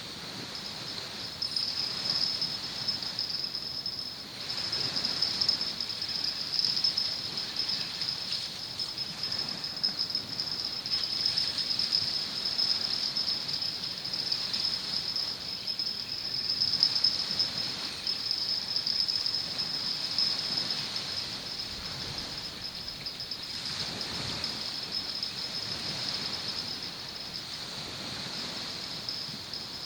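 Insects trilling steadily at a high pitch, over a softer rushing noise that swells and fades every few seconds.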